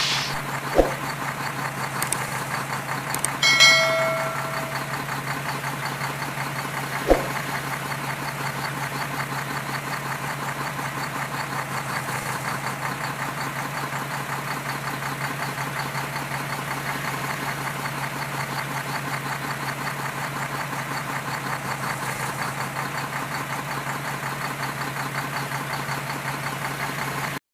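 Heavy diesel engine of a road-construction truck or excavator idling steadily with a fast, even knock. A short pitched tone sounds about three and a half seconds in, and there are two sharp knocks, near the start and about seven seconds in.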